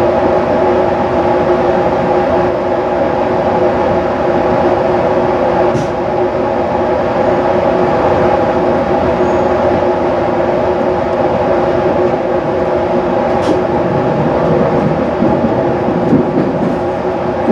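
JR East 215 series electric multiple unit running at steady speed, heard from inside the passenger car: a constant rumble with a steady traction-motor hum of several level tones, and a couple of faint clicks.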